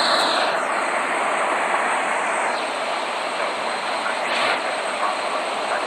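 Steady, even rushing noise of a Boeing 787's jet engines and airflow.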